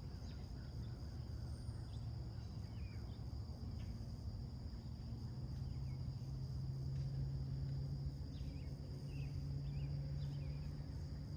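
Short bird chirps scattered over a steady high insect drone, with a steady low hum underneath that grows stronger about halfway through.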